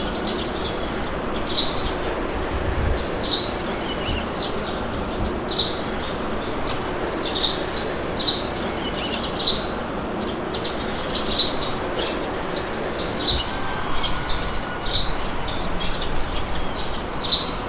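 Steady wind blowing, with birds chirping in short, scattered high calls throughout.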